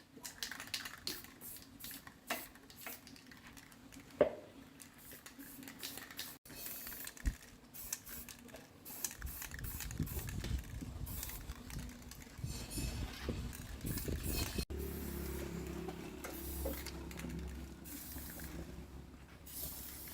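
Irregular light clicks and taps of tools and parts being handled during repair work, in several cut-together stretches, with a steady low hum joining after about fifteen seconds.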